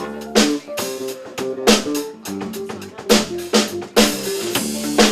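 Live band playing with drum kit, bass and guitar: a steady beat of drum hits and cymbals over held bass notes.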